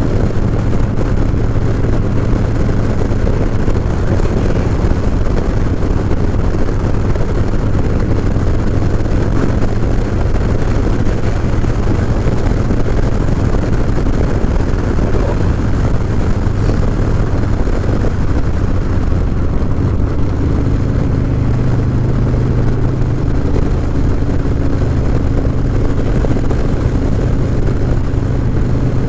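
Harley-Davidson Low Rider S motorcycle with a 114 cubic inch Milwaukee-Eight V-twin, heard from the rider's seat and running steadily at road speed. Its engine note rises slightly about two-thirds of the way through.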